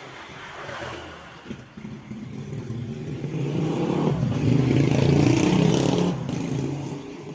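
An engine that grows louder, is loudest about five seconds in, then fades.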